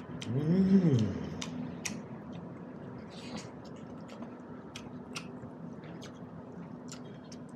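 Close-up mouth sounds of a man eating buffalo meat and dhido by hand: wet chewing with scattered lip-smacking clicks. About half a second in, a short hummed "mmm" rises and falls in pitch, the loudest sound here.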